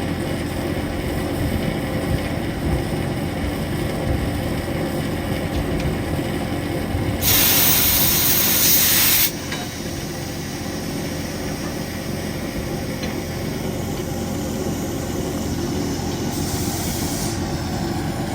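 Steam train running with a steady low rumble. About seven seconds in, a loud hiss bursts out for about two seconds, and a shorter, fainter hiss comes near the end.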